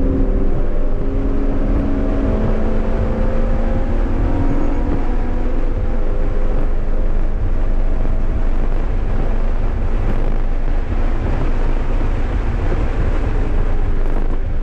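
2023 Subaru BRZ's 2.4-litre flat-four at full throttle high in the revs, heard from inside the cabin. The engine note climbs slowly and is increasingly buried under loud wind and road noise as speed builds.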